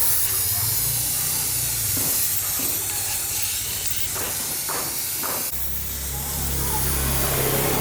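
Steady, high spraying hiss with a low machine hum beneath it. The hum changes pitch about five and a half seconds in.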